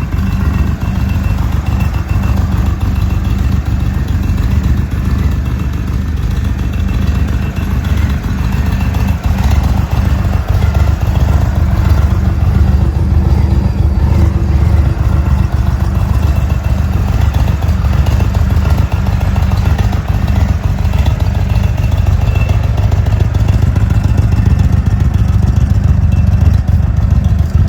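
Indian Thunderstroke 111 V-twin motorcycle engine running steadily, a loud, low exhaust rumble with no breaks.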